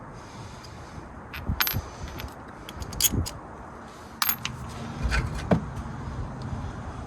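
Metal tools or hardware clinking against metal: about six sharp, ringing clinks spread over several seconds, over a steady low background rumble.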